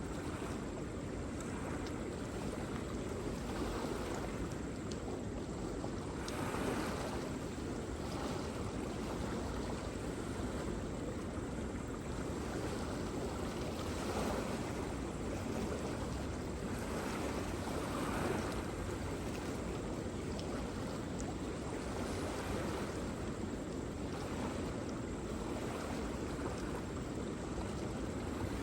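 Waterfall: a steady rushing of falling water, swelling slightly now and then.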